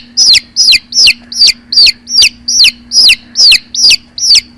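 Hen sound effect: a fast, regular run of high, downward-sweeping chirping clucks, about two and a half a second, over a steady low hum.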